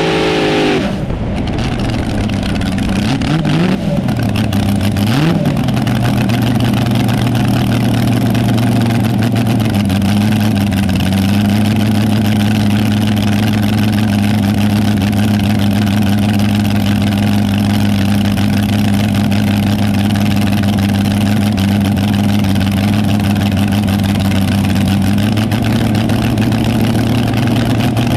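Drag car engine dropping off a rev right at the start, blipped twice briefly a few seconds in, then idling steadily and loudly.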